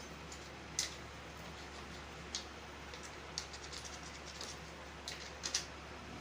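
Scattered light clicks and taps from tools and engine parts being handled during motorcycle engine work, a few seconds apart with a quick cluster near the end, over a steady low hum; the engine is not running.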